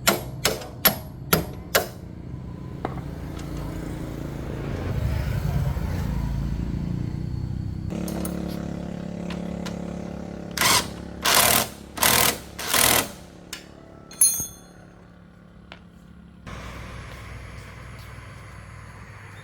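Workshop tool noise: five sharp knocks in the first two seconds and a steady machine hum, then four short, loud bursts in quick succession a little past halfway.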